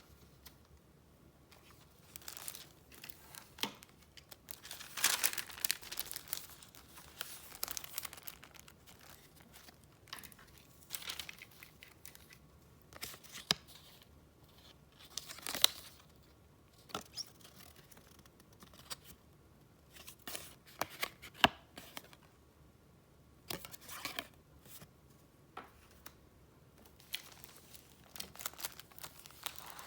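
Paper and packaging handled by hand: rustling and crinkling in short irregular bursts, with sharp crackles and quiet gaps between them.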